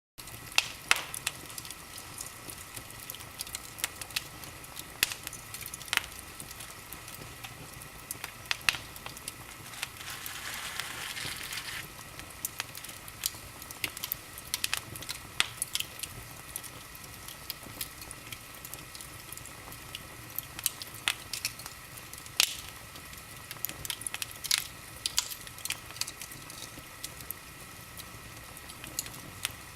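Wood fire crackling in a fireplace: irregular sharp pops and snaps, with a brief hiss about ten seconds in.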